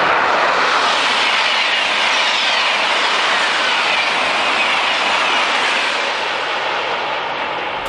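High-speed train rushing past: a steady rushing noise with faint falling whines, easing off slightly toward the end.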